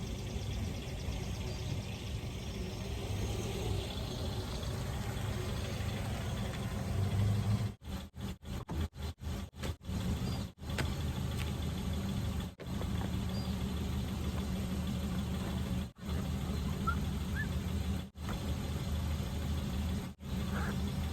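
Car running with a steady low hum of engine and road noise, broken by a quick run of short gaps about eight seconds in and a few single gaps later.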